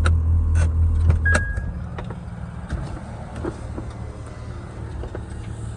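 Air-suspension compressor humming steadily, then cutting off about a second and a half in as the car is aired up, with a short electronic beep just before it stops. The engine idles underneath with a few small clicks.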